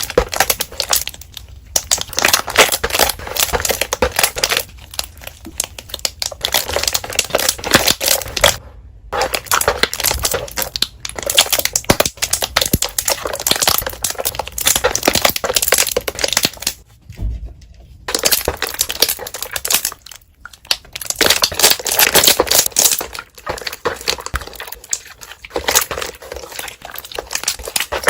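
Slime being squeezed and pressed by hand, giving dense crackling bubble pops in stretches of a few seconds, with brief pauses between.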